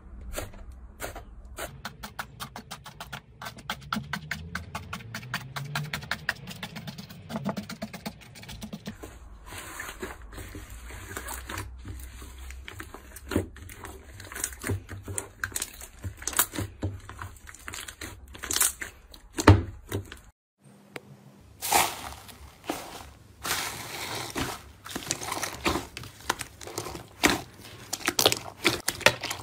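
Slime being squeezed, pressed and poked by hand, giving rapid sticky clicks and pops. The clicks come in a fast even run at first and turn irregular later. There is a short break about two-thirds through, after which crackly popping resumes.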